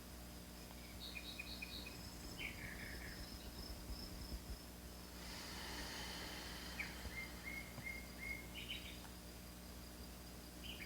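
Faint outdoor nature ambience: birds chirping in short quick series, over a steady high-pitched insect drone. A soft rush of noise swells briefly around the middle.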